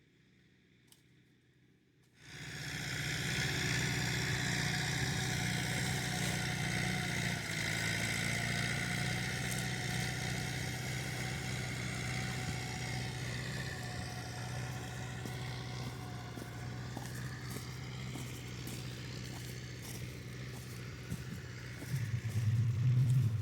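A vehicle engine starts up abruptly about two seconds in and runs steadily, its pitch drifting a little, and grows louder near the end.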